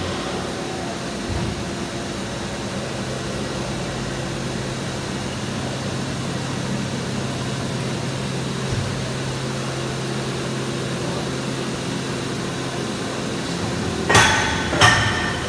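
Machinery running with a steady hum and a constant low tone. Near the end come two sharp metallic clanks about a second apart.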